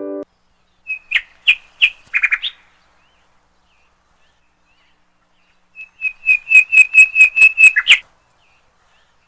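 A bird calling: a few sharp chirps about a second in, then, after a pause, a quick run of about a dozen sharp notes, about five a second, that stops abruptly.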